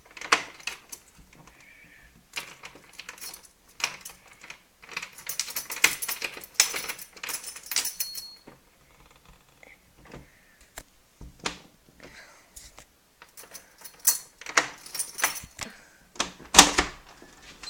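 A window being opened by hand: irregular clicks, knocks and rattles from the handle, latch and frame, with a denser clatter partway through and a few sharp knocks near the end.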